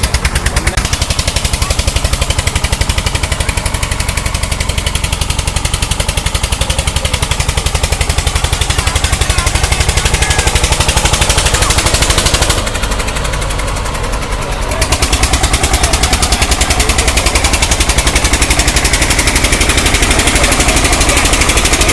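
Diesel tractor engine running hard close by, its exhaust beating in rapid, even pulses; about halfway through it eases briefly for a couple of seconds, then picks up again.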